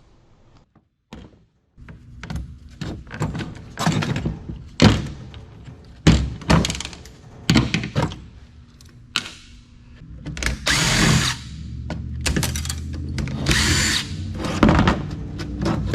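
Garage door opener being taken apart for scrap: repeated knocks and clatter of metal parts and hand tools, with two short bursts of a power driver near the end.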